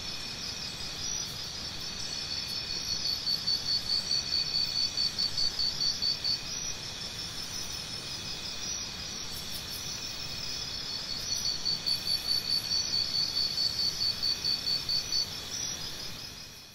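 Crickets chirping in quick, even pulses, with two louder stretches of chirping.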